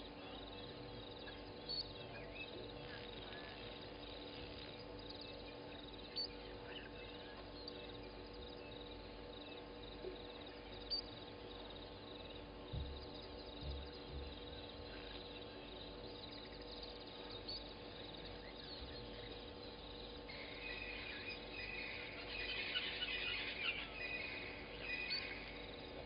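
Early-morning bushveld ambience at a waterhole: scattered bird chirps and calls over a steady low hum, with a livelier run of bird calls near the end.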